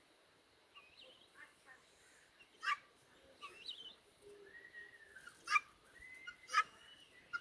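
Domestic turkeys calling: three loud, short, sharp clucks spaced a second or two apart, with softer chirps and gliding calls between them.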